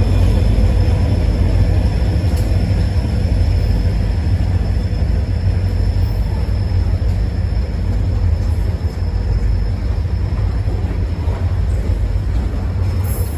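Freight train rolling past, a steady low rumble with no breaks.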